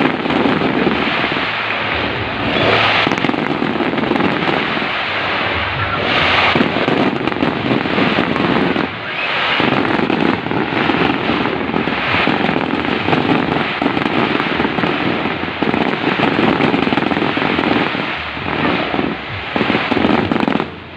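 Fireworks display: a nearly continuous barrage of bangs and crackling, the bursts running together with only a brief let-up about nine seconds in.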